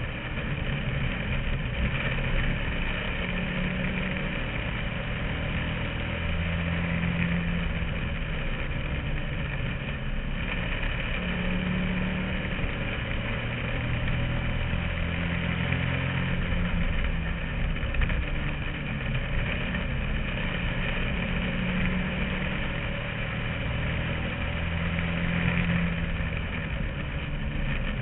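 Bandolero race car's small Briggs & Stratton V-twin engine heard from inside the car, running continuously. Its pitch rises and falls again and again, every few seconds.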